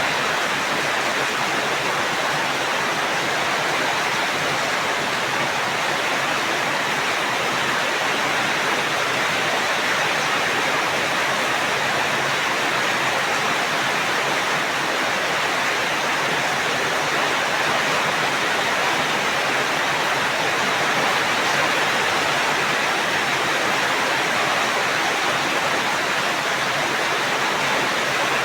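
Steady rain, a continuous even hiss of falling water that holds one level throughout.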